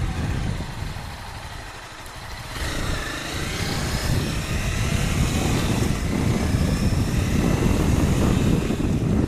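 Honda CBR300R's single-cylinder engine running under way, with wind rushing over a helmet-mounted microphone. From about two and a half seconds in, the engine note climbs and grows louder as the bike accelerates.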